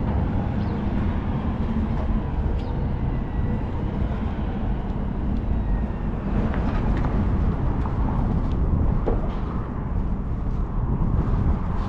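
City street ambience dominated by a steady rumble of passing traffic, with a few faint clicks.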